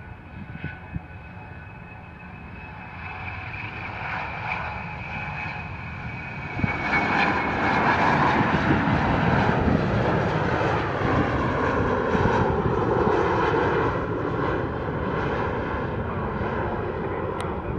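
Airplane engines passing by, building from about three seconds in to a loud stretch with a high whine, then slowly fading.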